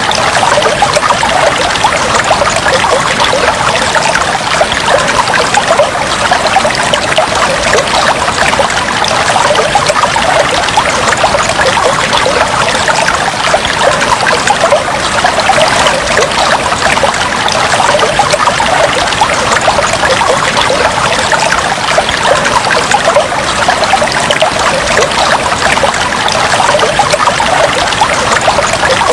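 Aquarium water trickling and bubbling steadily, a dense continuous patter of small splashes and bubbles.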